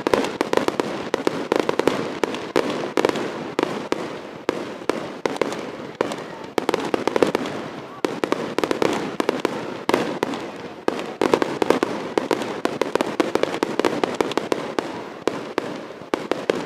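Fireworks going off in a dense, unbroken string of bangs and crackles, many every second.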